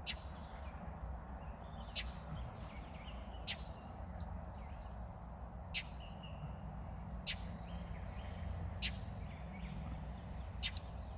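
A nesting bird giving a short, sharp chirp about every one and a half seconds, seven times, a repeated alarm call at a cat near its nest.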